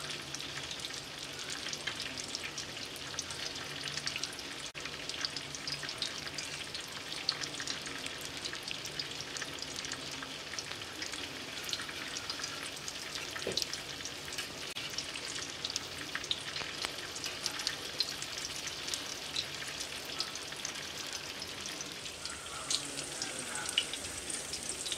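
Breaded chicken nuggets shallow-frying in hot oil: a steady sizzle dotted with many small crackles and pops.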